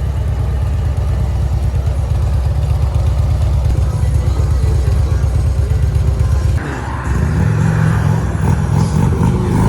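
Harley-Davidson V-twin motorcycle engine running under way, a loud low rumble. About two-thirds of the way in the engine note shifts and a brighter rushing sound joins it.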